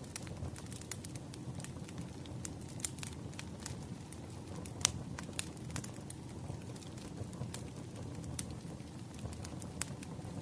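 Firewood fire crackling: irregular sharp pops and snaps over a low steady rumble of burning, the loudest pop about five seconds in.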